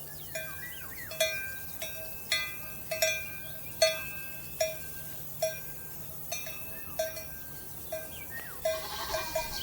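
Bells on grazing livestock clanking irregularly, about one or two ringing strikes a second.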